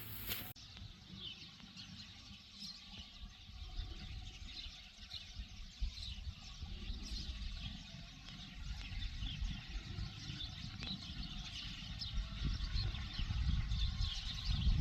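Scattered short bird chirps over a low, uneven rumble that grows louder near the end.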